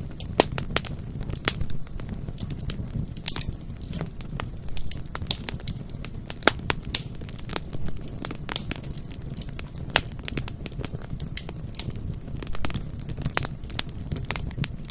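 Bonfire burning, with many irregular sharp crackles and pops over a low, steady rumble of the flames.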